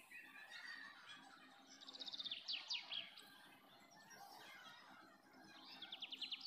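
A bird singing faintly: a rapid run of down-slurred notes about two seconds in, and a second, shorter run near the end.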